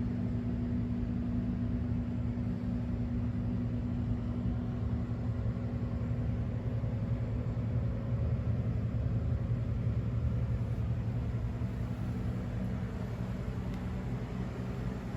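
Honda CX650 Turbo's turbocharged V-twin engine idling steadily with an even low hum.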